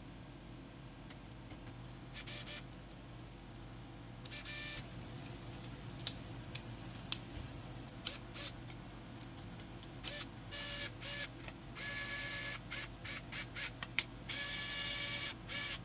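Bambu Lab X2D 3D printer's stepper motors whining in short bursts of movement, stopping and starting more and more often. A few sharp clicks come in between.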